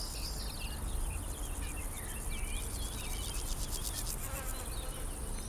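Many honeybees buzzing in flight, a steady hum.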